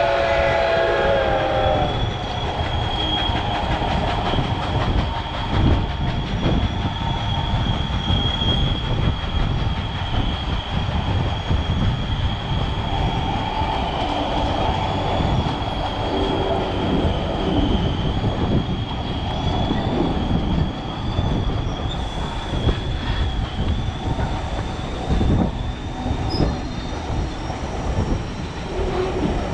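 Passenger train rolling along the track: a loud steady rumble and rattle of the wheels, with a thin high wheel squeal held throughout. The tail of the steam locomotive's three-chime whistle sounds in the first second and a half, then cuts off.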